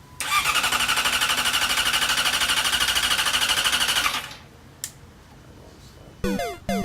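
Yamaha R6 starter cranking the engine for about four seconds with a fast, even chugging, then stopping without the engine catching. A single click follows, and music with stepping synth tones comes in near the end.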